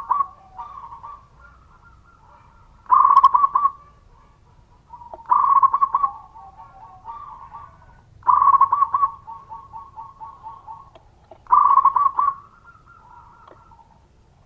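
Zebra dove (perkutut) singing, repeating its cooing phrase about every three seconds. Each phrase is a loud burst followed by a run of quick staccato notes, with fainter coos in between.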